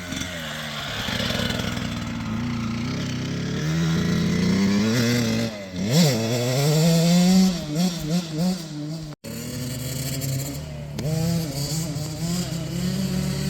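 KTM 65 two-stroke dirt bike engine running and being revved, its pitch rising and falling with the throttle: a sharp rev about six seconds in, then several short blips. The sound cuts out for an instant just after nine seconds, then the engine carries on steadily.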